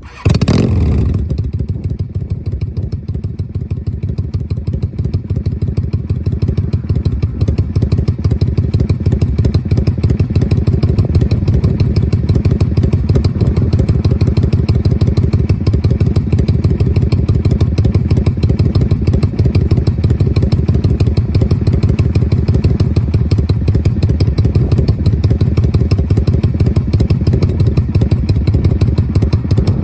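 Yamaha Drag Star 400 V-twin motorcycle starting right at the outset, then idling steadily through its muffler in the lopsided three-beat 'sanbyoushi' rhythm.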